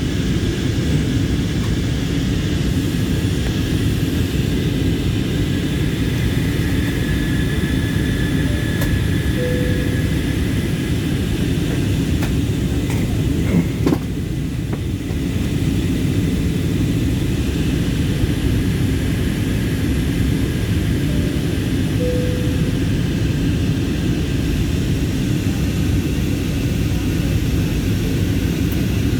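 Steady drone of a passenger plane's engines and airflow heard inside the cabin, with a brief knock about halfway through.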